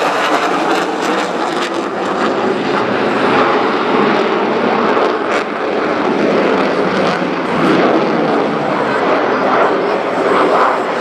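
Loud, steady jet engine noise from a Dassault Rafale C fighter's two Snecma M88 turbofans as it flies its display.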